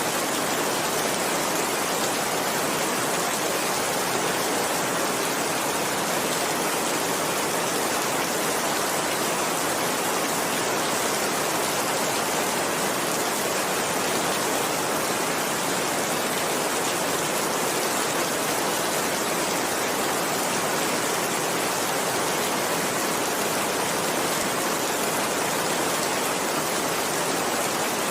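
Steady downpour of rain, an even hiss with no let-up and no thunder.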